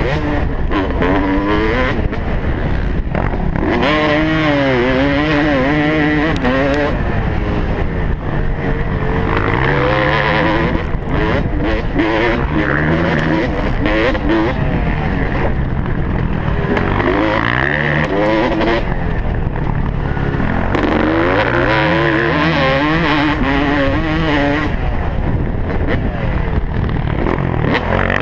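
Motocross bike engine revving hard, its pitch climbing and dropping again and again with throttle and gear changes.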